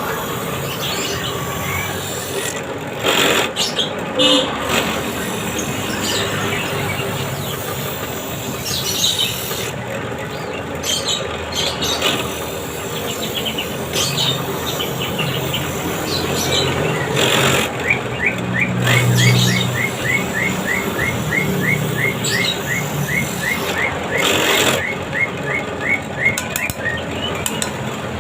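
A bird chirping in a rapid series, about three short rising calls a second, over steady background noise.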